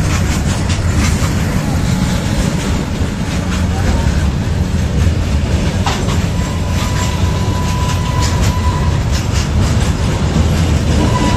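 Loaded freight train wagons rolling past close by: a steady heavy rumble with the clickety-clack of wheels knocking over rail joints. A steady high-pitched tone sounds for a couple of seconds past the middle.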